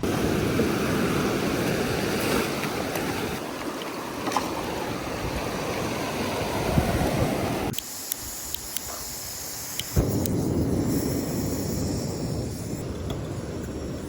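Sea surf washing with wind on the microphone, a steady rushing noise. It breaks off abruptly about eight seconds in and comes back a couple of seconds later.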